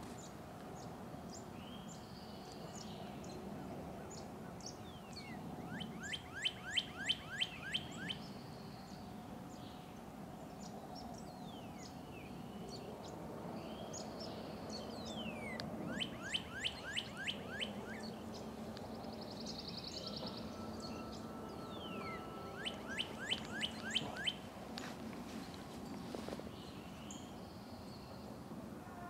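A songbird sings a quick song of about eight to ten repeated rising notes, three times, roughly eight to ten seconds apart. Other small birds chirp now and then between the songs.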